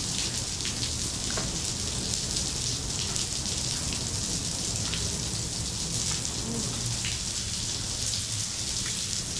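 Steady hiss of artificial rain falling in a rain room, water pattering continuously, with a steady low rumble underneath.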